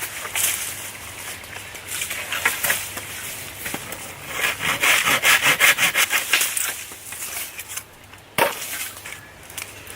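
Wood being cut or scraped with a hand tool, in rapid repeated strokes that are loudest a little before the middle, then a single sharp knock near the end.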